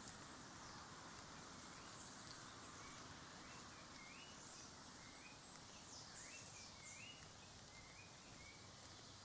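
Faint birds chirping outdoors: a run of short, upward-sweeping chirps repeated several times over steady background hiss, with thin high calls scattered above.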